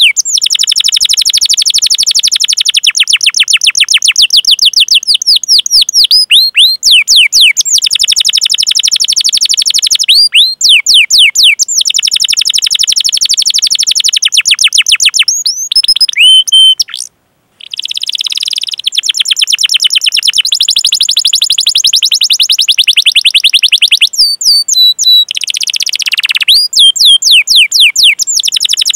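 Domestic canary singing long rolling trills: fast runs of rapidly repeated high chirps, many a second, broken by short pauses. The song cuts out for a moment a little past halfway.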